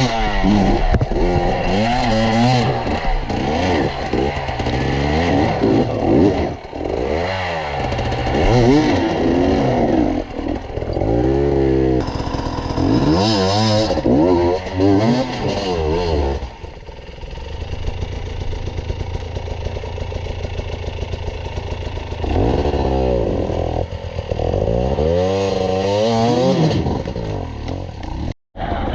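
Enduro motorcycle engine revving up and down in repeated bursts, easing into a steadier lower run in the middle before revving hard again. The sound cuts out for a moment near the end.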